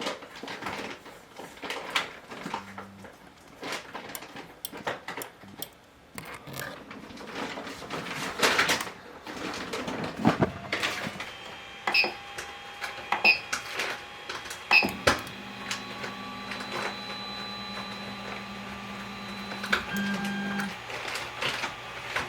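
Creality Ender 3 3D printer: handling clicks and a few short beeps, then stepper motors whining steadily as the axes move, changing pitch about twenty seconds in.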